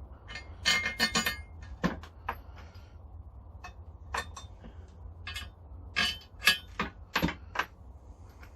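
Steel grinder parts clinking and knocking together as they are handled and set down, a string of sharp, irregular metal hits with short ringing, bunched about a second in and again near the end.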